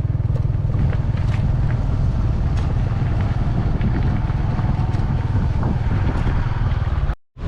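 Motorcycle running at road speed with heavy wind buffeting the microphone, a steady low rumble throughout. The sound cuts out abruptly for a moment near the end.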